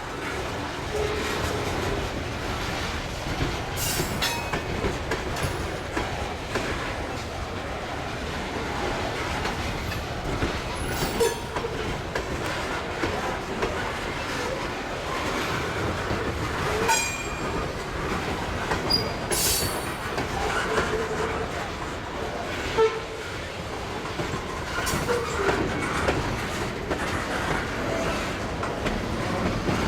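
Freight train cars rolling past, a steady rumble with wheels clicking over the rail joints. About five times there is a brief, high-pitched squeal of wheels on the rail.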